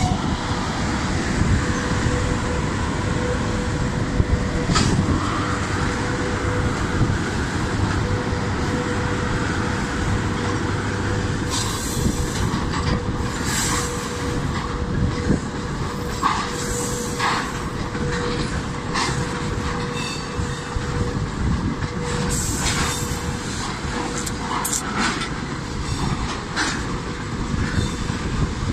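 Train running on rails: a steady rumble of wheels with a steady hum. From about twelve seconds in come scattered short, sharp clanks and squeaks.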